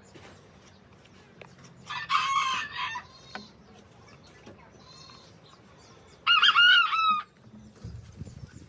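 Rooster crowing twice, each crow about a second long, with a fainter call between them.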